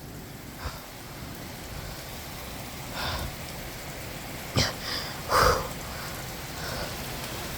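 Heavy thunderstorm rain falling steadily, with a few brief louder splashes or knocks; the loudest comes about five seconds in.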